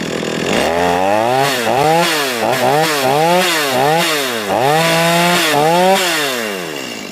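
Stihl MS210 chainsaw's two-stroke engine running on a freshly tuned aftermarket clone carburetor. The throttle is blipped up and down over and over, then the engine drops back toward idle near the end. It revs cleanly: "not too bad", though it will take a little more tuning.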